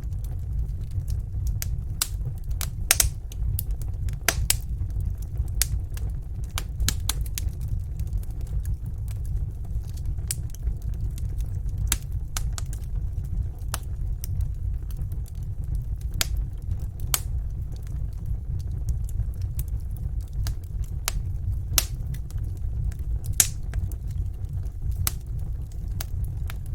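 Wood fire in a fireplace crackling, with sharp irregular pops over a steady low rumble.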